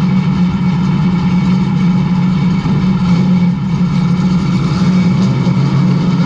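A vehicle engine running steadily at a constant speed, an even drone that holds without revving up or down.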